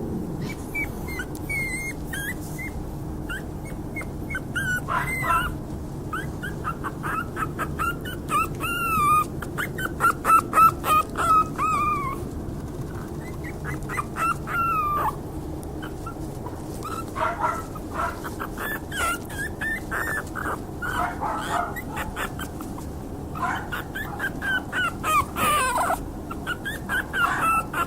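Puppies whimpering and yipping: many short high-pitched cries, coming thickest about ten seconds in and again near the end.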